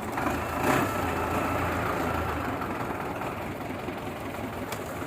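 Belarus 510 tractor's diesel engine running steadily, with a faint high whine over the first couple of seconds.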